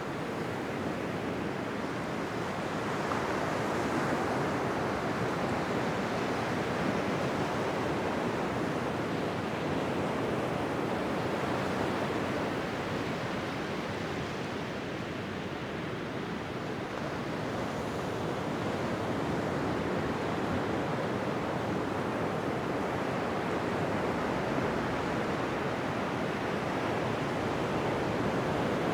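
Ocean waves washing onto a beach: a continuous surf noise that swells and eases slowly, dipping briefly about halfway through.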